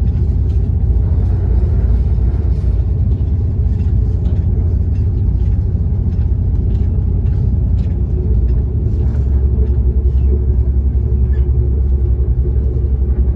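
Steady low rumble of the Prospector diesel railcar running at speed, heard from inside the passenger carriage, with faint clicks from the wheels on the track. The low drone shifts to a slightly different note about nine seconds in.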